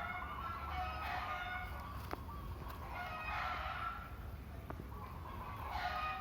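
Free-range village chickens calling, with roosters crowing in long drawn-out calls about a second long, three times, over a steady low hum.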